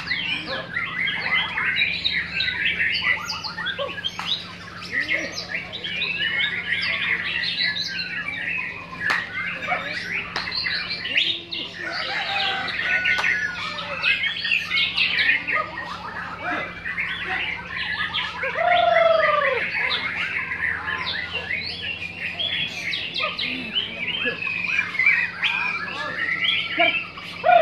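Many white-rumped shamas singing at once, a dense unbroken chorus of overlapping chirps and whistled phrases, with one lower, louder swooping note about two-thirds of the way through.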